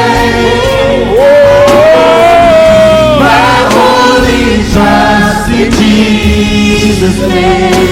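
Worship singing in church: several voices singing together over a band. One voice holds a long note that slides down about three seconds in.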